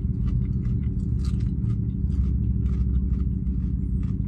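Someone chewing crunchy fries, irregular crisp crackles and clicks, over the steady low hum of a car cabin with the engine running.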